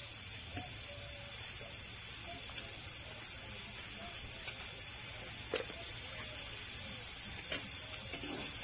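Potatoes and peas frying in oil in a karahi, a steady sizzle, with a couple of light knocks in the second half.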